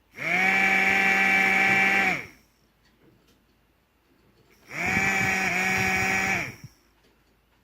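Small DC motor salvaged from a CD drive, running twice for about two seconds each time. Each time it spins up quickly, holds a steady whine, then winds down when switched off.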